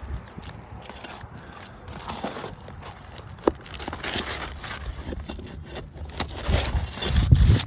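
Scraping and clicking as tools and shingles are worked during a roof shingle replacement, with one sharp tap about three and a half seconds in and heavier low thuds near the end.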